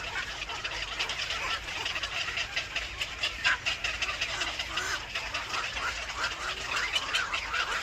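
Birds chirping and calling: a dense, busy run of short, high calls.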